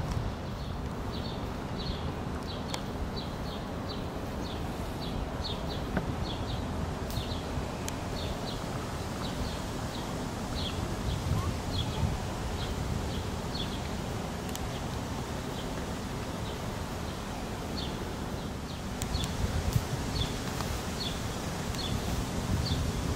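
A bird chirping over and over, a short high chirp two or three times a second, over a steady low outdoor rumble, with a few faint clicks.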